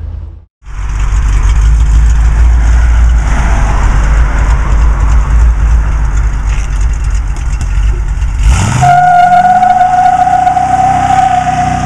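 Cadillac 500 cubic-inch V8 of a 1978 Chevy pickup street rod at full throttle during a burnout, loud and dense. About three-quarters through, the engine's pitch climbs and a steady high squeal comes in over it.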